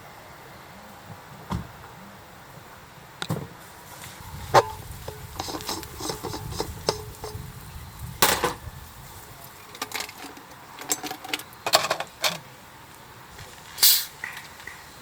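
Camping gear being handled while setting up camp: irregular knocks, clicks and rustling, with a sharp knock about four and a half seconds in.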